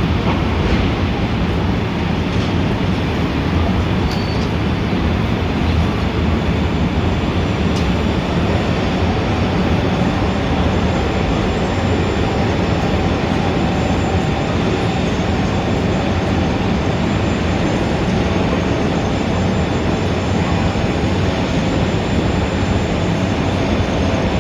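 Steady, loud Manhattan street traffic: a continuous low rumble of engines and tyres, with faint steady tones above it and no distinct events.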